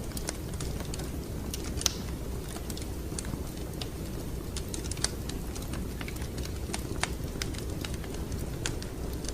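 Wood fire crackling in a fireplace: irregular sharp pops and snaps over a steady low rumble, with louder pops about two, five and seven seconds in.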